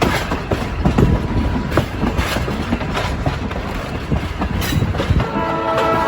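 Train running on the rails, its wheels clattering and clicking over the track. About five seconds in, a train horn starts sounding a steady multi-note chord.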